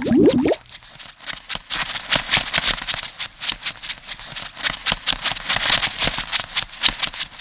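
Crab sound effect: a rapid, irregular clicking and rattling like claws and legs scuttling. A warbling, bubbly pitched sound cuts off about half a second in, just before the clicking starts.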